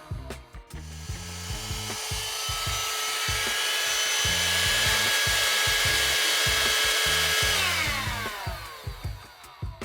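Parkside PHSSA 20-Li C1 cordless hand-held vacuum cleaner's motor switched on, whining up to full speed, running steadily for several seconds, then switched off and winding down in pitch near the end. Background music with a thumping bass beat plays underneath.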